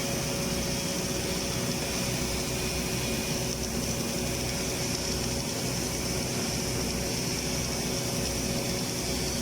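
Steady mechanical drone of running machinery, even in level throughout, with a few faint steady tones over a hiss.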